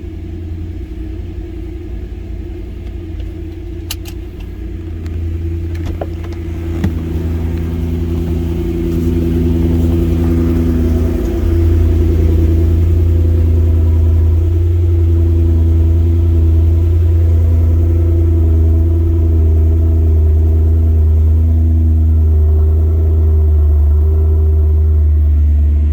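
2003 BMW M5's 4.9-litre V8 idling just after a cold start. The steady idle grows louder over the first half, then holds even.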